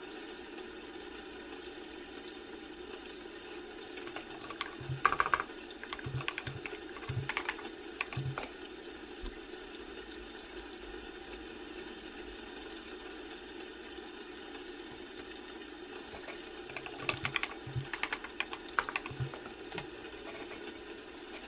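Typing on a computer keyboard in two short runs of key clicks, about four seconds apart, over a steady background hum.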